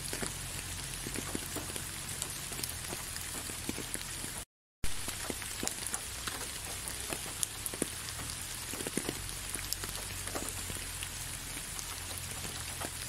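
Steady rain falling, an even hiss with many separate drop hits. About four and a half seconds in, the sound cuts out completely for about a third of a second, then resumes.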